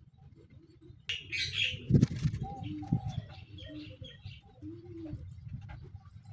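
Birds calling: a burst of high chirps about a second in, then a series of short, low, arched calls, with a sharp knock about two seconds in.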